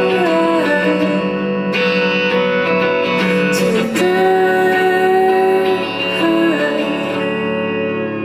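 Indie rock band playing live, with guitars to the fore in the closing bars of the song.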